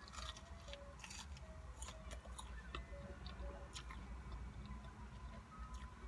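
Faint, close-up chewing and mouth sounds of someone eating fried chicken nuggets, with scattered small crunches and clicks.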